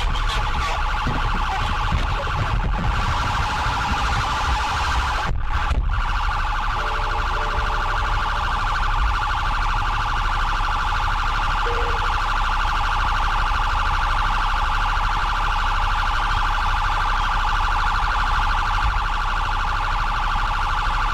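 Police siren sounding continuously in a fast-pulsing steady tone over low road and engine rumble. It cuts out briefly about five seconds in.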